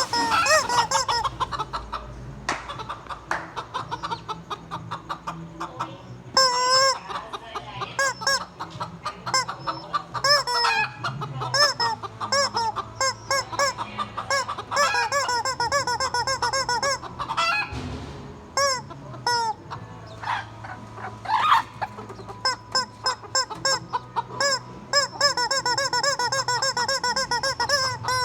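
Chickens clucking continuously, many short rising-and-falling clucks overlapping, with frequent sharp, short high-pitched squeaks mixed in.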